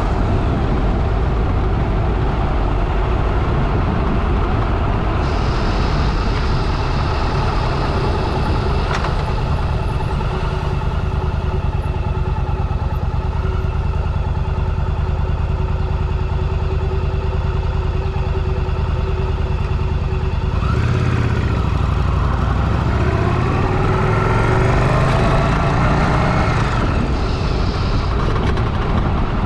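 Motorcycle engine running steadily at low revs, then rising in pitch several times about two-thirds of the way through as the bike accelerates.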